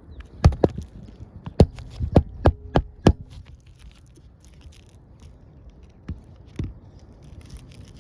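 A series of sharp knocks, about seven in quick, uneven succession in the first three seconds, then two more past the middle.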